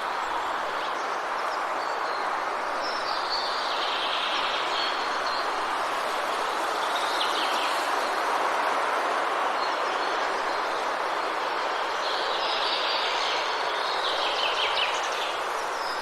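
Forest ambience: a steady, even rushing noise, with birds chirping and trilling over it several times, the calls clustered near the start, around the middle and near the end.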